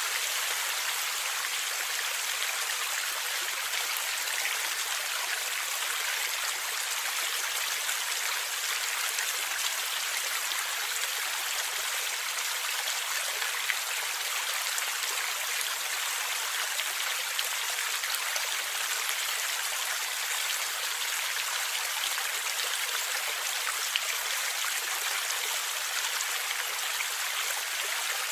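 River or stream water flowing and gurgling steadily, an even hiss of moving water with a few brief louder drips or splashes.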